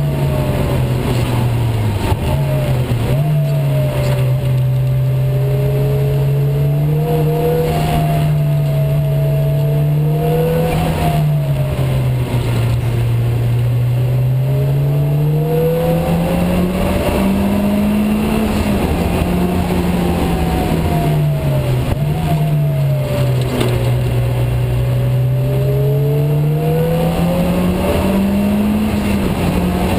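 Engine of a Honda-engined Mini race car heard from on board. Its pitch climbs under acceleration and falls back at each gear change or lift-off, about half a dozen times, over a steady hiss.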